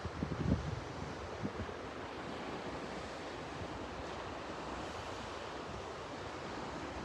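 Sea surf washing with a steady rush. Wind buffets the microphone in low gusts during the first second or so.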